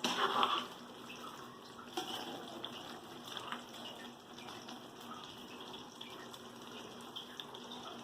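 Chicken cooking in masala in a pressure cooker pan: a soft, steady hiss, with a few faint ticks from the spoon.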